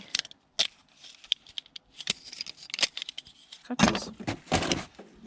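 Metal kitchen utensils clinking and clattering as they are picked through and handled: a run of short, sharp clicks at an irregular pace, busier near the end.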